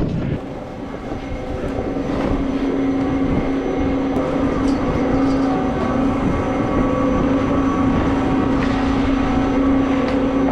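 Ski lift machinery running: a steady mechanical hum that builds over the first couple of seconds, then holds, with a few faint clicks.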